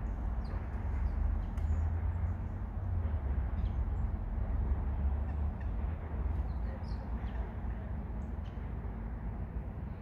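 Faint, high bird chirps come scattered throughout over a steady low rumble.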